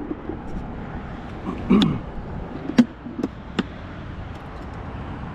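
A few short, sharp knocks and clicks, about five, over a steady background noise.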